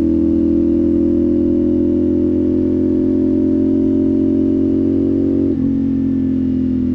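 CFMOTO 450SS parallel-twin engine running under steady load at cruising speed, its note slowly rising. About five and a half seconds in, the pitch drops sharply, as at a gear change.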